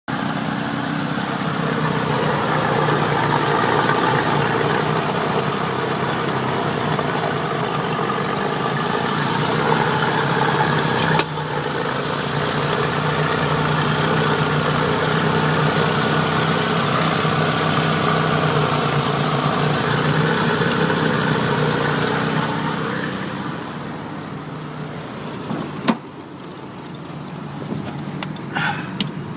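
Mitsubishi 4G15 1.5-litre inline-four petrol engine idling steadily. A click about eleven seconds in; in the last few seconds it runs quieter, with a sharp click.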